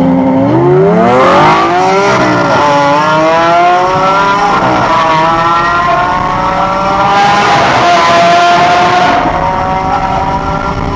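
Straight-piped Lamborghini Aventador V12 accelerating hard at full throttle. The pitch rises steeply, drops at an upshift about two seconds in, then climbs again and holds high.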